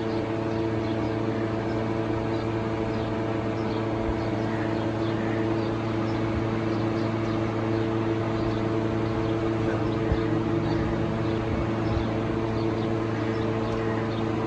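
Toyota Premio's 1ZZ four-cylinder engine running steadily at an even speed, a constant hum with no revving. This is the engine whose noise problem is being checked.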